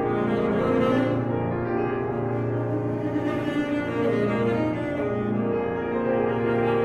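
Saxophone and piano playing a contemporary classical sonata: the saxophone holds sustained notes that move in pitch every second or so over the piano.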